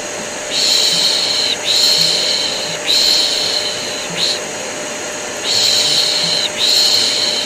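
Rhythmic shushing for a baby: long 'shh' sounds about a second each, in runs of three with a short break between runs, over the steady drone of a vacuum cleaner.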